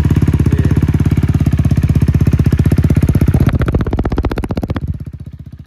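KTM Duke 390's single-cylinder engine running with no exhaust fitted, loud and fast-pulsing just after starting, revved briefly about three and a half seconds in, then settling to a quieter idle near the end.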